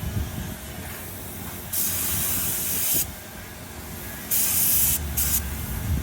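Paint spray gun spraying automotive paint onto a car body panel in three bursts: a long pass of about a second, a shorter one, then a brief blip. Each burst is a loud hiss.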